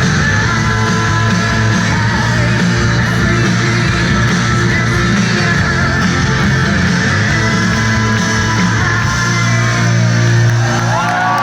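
A live rock band playing loud, with electric guitars and bass over steady, dense sound.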